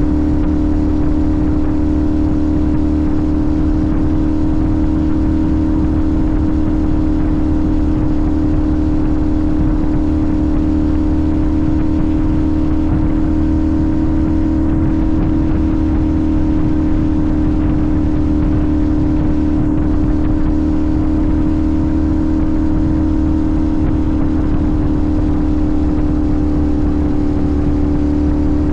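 Sportbike engine cruising at a constant engine speed, its note holding one even pitch throughout, with a rough rushing noise underneath.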